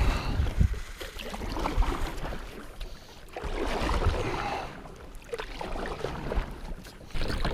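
Water splashing and sloshing in uneven swells, over a low rumble of wind on the microphone.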